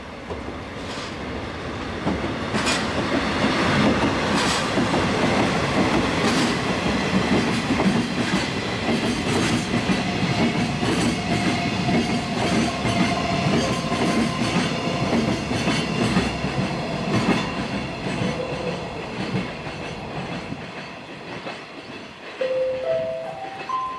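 A DD51 diesel-hydraulic locomotive passes close, followed by a string of empty container flatcars rolling by with a steady clickety-clack of wheels over the rail joints that swells and then fades as the train moves away. Near the end, a rising four-note chime sounds from the station's speakers.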